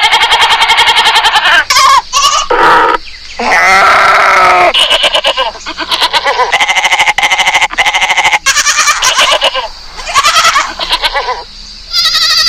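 Goats bleating, a series of loud calls one after another with short gaps, several of them pulsing rapidly as they go.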